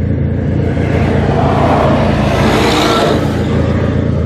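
Steady low vehicle rumble, with a hiss that swells and fades about two to three seconds in, like a vehicle passing.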